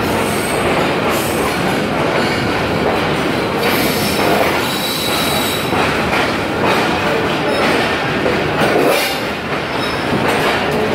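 Passenger train rolling slowly along a station platform: a steady rumble of wheels and carriage, with a thin, high wheel squeal about halfway through.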